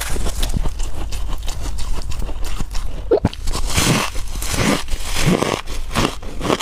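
Freezer frost being bitten and chewed: a dense, continuous run of crisp crunches and crackles.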